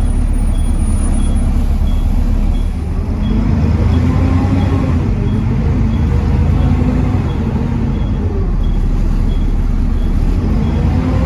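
Volvo D7C 7.3-litre diesel of a Volvo B7TL double-decker bus running under load on a hill climb, through a ZF Ecomat automatic gearbox. There is a brief dip in engine sound about three seconds in before it pulls on steadily.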